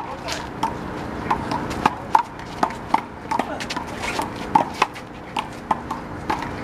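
One-wall handball rally: a rubber handball is slapped by open hands, strikes the wall and bounces off the court, making a quick, irregular run of sharp slaps.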